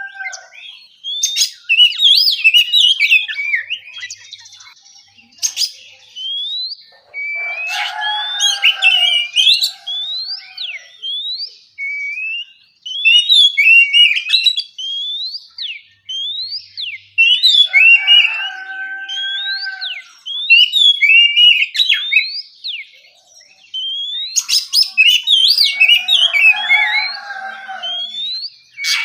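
Oriental magpie-robin (kacer) singing loud, clear whistled phrases in repeated bursts with short pauses. Each phrase is a quick run of rising and falling notes, and a few lower, drawn-out notes come in between.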